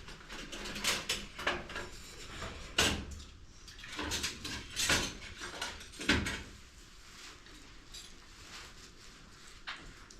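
Irregular knocks, clatter and scraping, the loudest about three, five and six seconds in, easing off to quieter scuffs after about seven seconds.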